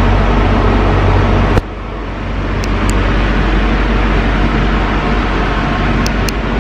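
Steady running noise of a moving passenger train heard from inside the coach, with a low hum under it. The noise drops suddenly about a second and a half in, then builds back up, with a few faint ticks.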